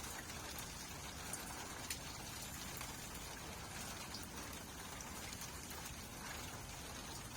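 Steady rainfall: an even hiss with many scattered raindrops ticking close by.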